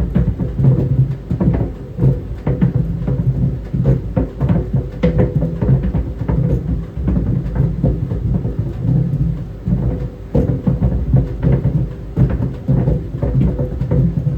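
Tennis balls tumbling in a running clothes dryer: irregular thuds and knocks of the balls hitting the drum, several a second, over the steady hum of the turning drum.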